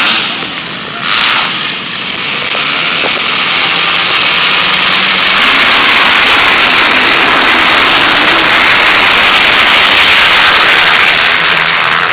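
Motocross bikes racing past at close range, a dense crackling engine noise that builds over a few seconds to a loud peak and eases off near the end.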